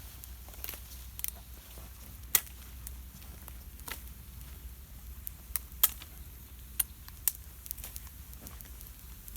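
Campfire of damp wood crackling, with sharp, irregular pops, the loudest about two and a half and six seconds in, over a steady low rumble.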